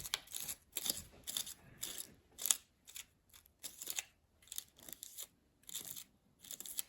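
Paintbrush spreading gold paint onto an oak leaf: a series of short, hissy brush strokes at an irregular pace, roughly two a second.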